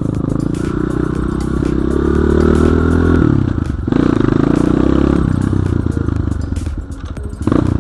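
BSE J1 enduro dirt bike engine running under throttle, the revs rising and falling. The revs drop briefly about four seconds in and again near the end, with frequent knocks from the bike over rough ground.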